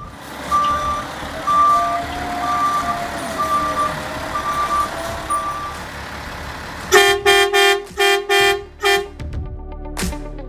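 Dump truck's reverse alarm beeping steadily, six beeps about a second apart, then a quick run of about five short, loud honks of the truck's horn.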